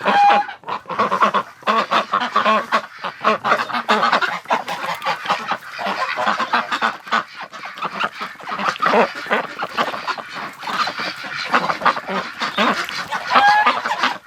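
A flock of domestic ducks and geese calling all at once: a dense, continuous din of overlapping honks and quacks.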